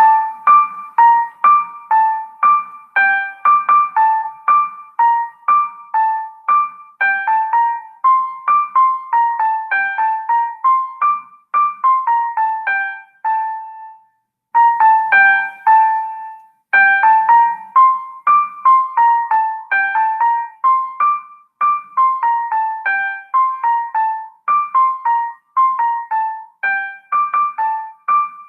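A student's computer-made music track: a simple melody of short, separate electric piano notes in an even rhythm, with a brief pause about halfway through before the phrase starts again.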